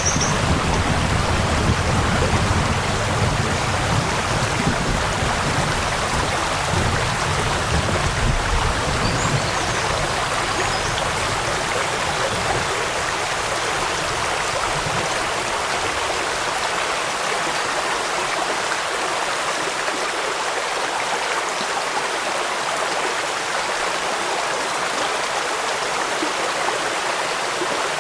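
Steady rush of running water with rain, with a deep low rumble beneath it that fades out about halfway through.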